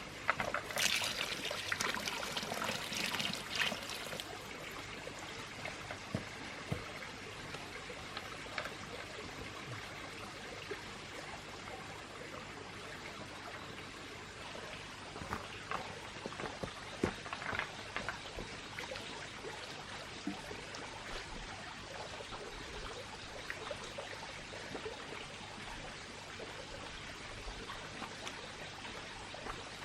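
Water trickling and splashing steadily, with scattered small drips and splashes. It is busier and louder for the first few seconds.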